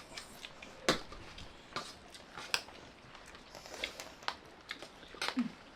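Eating sounds: chewing and biting, with scattered short sharp clicks, the strongest about a second in and near the end.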